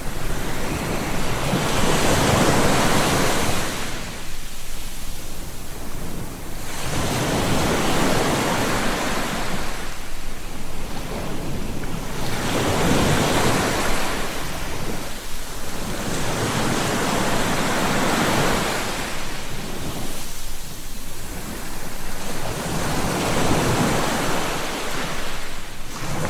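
Sea waves breaking and washing on a shore, the surf swelling and fading in repeated surges every three to four seconds.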